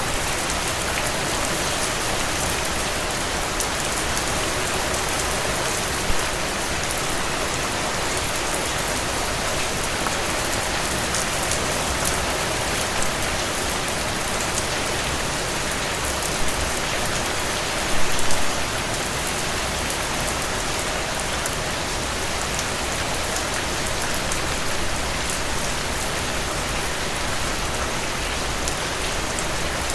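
Steady rain falling, with individual drops ticking sharply through the even hiss. A few brief louder moments stand out, the loudest about eighteen seconds in.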